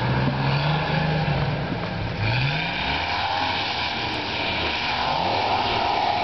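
A Jeep's engine revving hard as it powers up a sandy, snow-covered slope, with its tyres spinning and throwing sand. The engine note is steady at first, then rises just after two seconds in.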